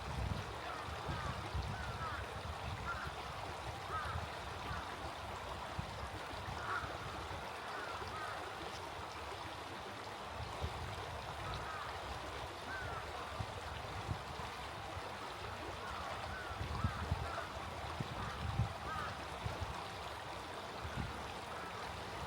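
Small stream flowing steadily, with water birds giving short chirping calls every second or two.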